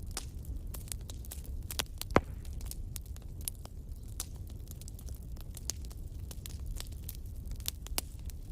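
Wood fire crackling, with irregular sharp pops and one louder pop about two seconds in, over a steady low rumble.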